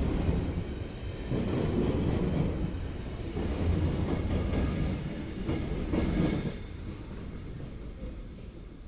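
Train running along the station tracks, a rumble with wheel noise that swells a few times and then dies away about six and a half seconds in.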